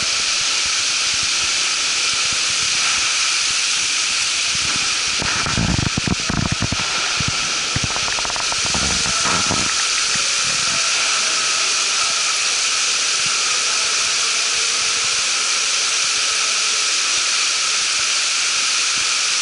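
Steady loud hiss of seawater running and splashing into live-fish holding tanks, with a few dull low thumps about six and nine seconds in.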